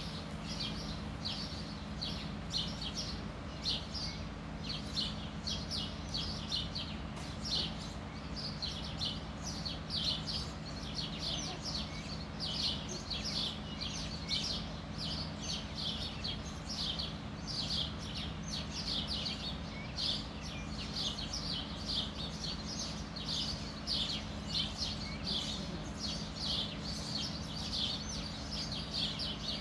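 Small birds chirping in a rapid, continuous, overlapping stream of short high chirps, over a steady low hum.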